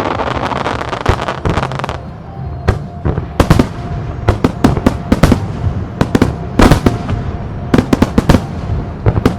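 Aerial fireworks shells bursting in rapid salvos. A dense crackle fills the first two seconds, then sharp reports follow in quick clusters, several a second at times.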